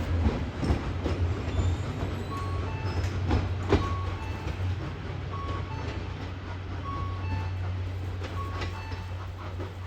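A departing steam-hauled passenger train rolling away: a low rumble with scattered knocks of wheels over rail joints, slowly fading. Under it, a two-note station chime repeats about every second and a half.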